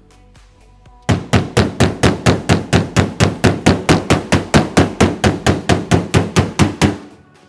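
Rapid, even hammer blows on the sheet-metal roof of a 1970 Chevrolet C10 pickup, about five strikes a second for some six seconds, starting about a second in, as a dent is worked back out.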